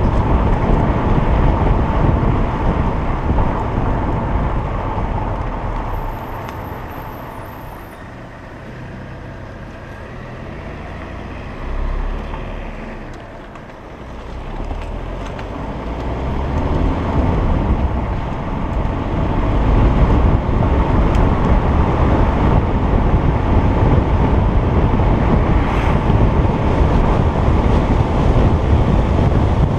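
Stock 2010 Alfa Romeo Giulietta Quadrifoglio Verde's 1750 turbocharged four-cylinder engine heard from on board while driving, under load at first. It goes quieter as the driver eases off for several seconds around the middle, then builds again as the car accelerates and holds loud, steady running for the last ten seconds.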